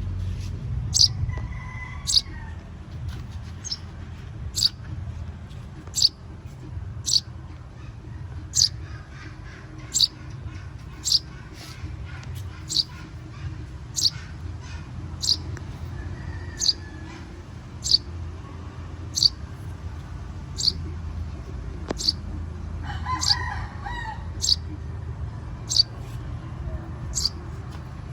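Young birds calling: a short, high, sharp peep repeated about once every second or so, with a few softer, lower chirps in between, over a steady low rumble.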